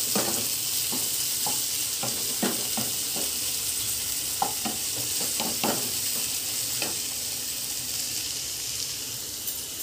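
Chopped onion, green chilli and tomato sizzling in hot oil in a kadhai while being sautéed, with a steady hiss. A wooden spatula stirs them, scraping and knocking against the pan now and then, more often in the first several seconds.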